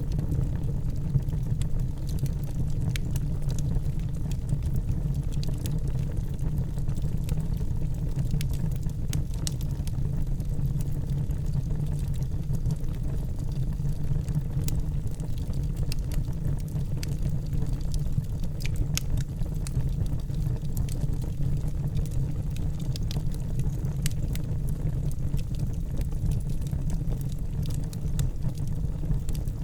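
Wood fire burning in a fireplace: a steady low rumble of the flames, with many small, sharp crackles and pops scattered throughout.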